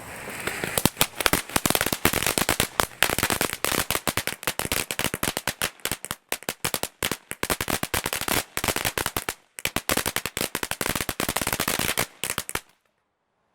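Back-garden crackling firework fountain going off: a dense, rapid run of crackles that stops abruptly about twelve and a half seconds in.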